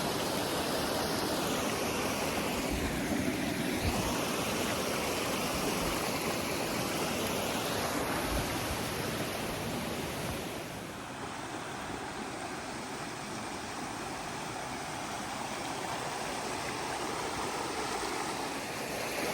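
Waterfall: a steady rush of falling water, which turns a little quieter and duller about eleven seconds in.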